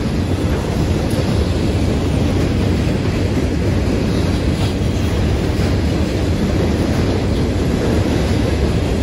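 Freight train rolling past: a steady, loud rumble of steel wheels on rail.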